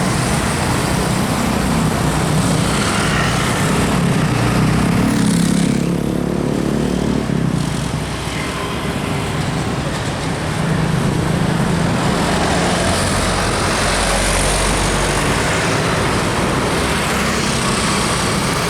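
Heavy road vehicles passing, a large engine running loud over road noise. Its pitch climbs a few seconds in and then falls away, and another heavy engine comes up near the middle and carries on.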